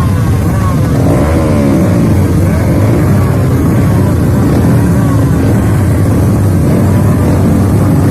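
Several motocross dirt bike engines running, their pitch rising and falling as they rev and ease off, overlapping one another.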